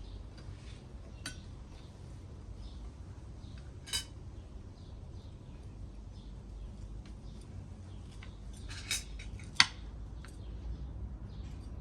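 Cutlery knocking against dishes in a few separate clinks, the sharpest and loudest about ten seconds in. Faint bird chirps sound in the background.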